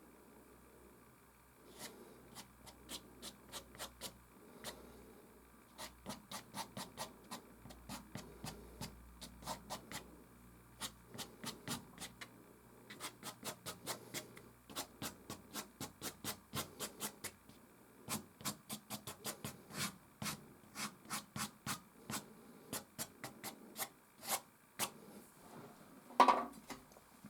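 Soft pastel stick scratching across canvas in quick, short strokes, a few per second, with one louder knock near the end.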